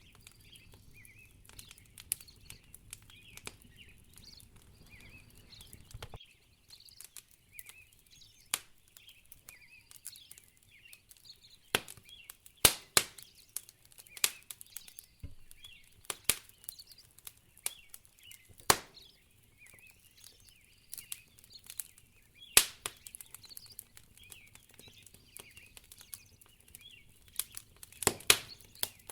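Wood fire crackling in a fireplace: irregular sharp pops and snaps, a handful much louder than the rest, over faint high chirping.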